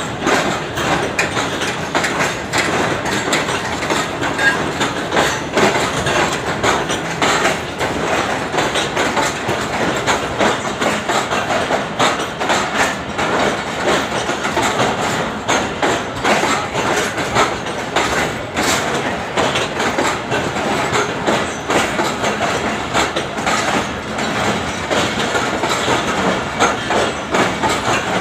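Express passenger train rolling along the platform, with the steady rumble of the coaches and a constant clatter of wheel clicks over the rail joints.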